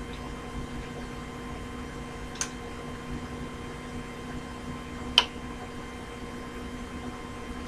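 A steady low hum with two short sharp clicks, about two and a half and five seconds in.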